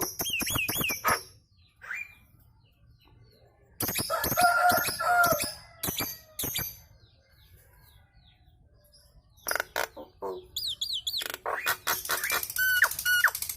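Nias hill myna calling in three bursts of harsh chatter, clicks and whistles, with quiet gaps between.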